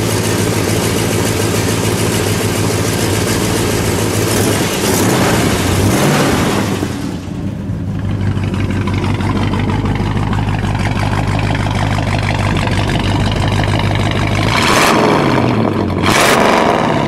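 The 440 cubic-inch V8 of a barn-find 1970 Plymouth Superbird running at a steady idle. It is revved briefly about five seconds in, then twice more near the end.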